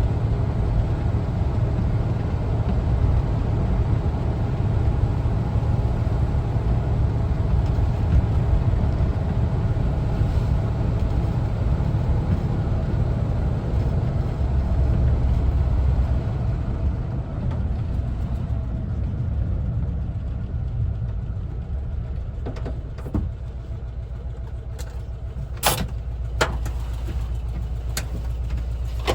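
1974 Volkswagen Westfalia camper's air-cooled flat-four engine running with road noise while driving. About two-thirds through it eases off and gets quieter, as if slowing down, and a few sharp clicks follow near the end.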